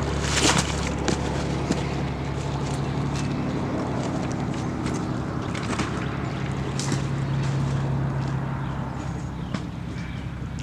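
A big hooked catfish splashing and thrashing at the surface as it is brought in to the bank, the loudest splash about half a second in and smaller ones later. A steady low engine hum runs underneath.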